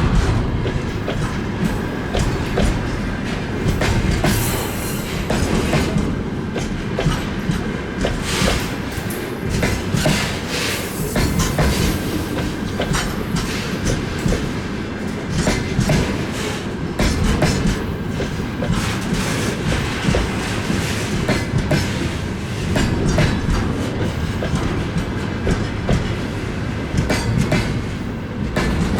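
Freight train rolling past: a steady rumble of wagon wheels on the rails with constant clicking over the rail joints.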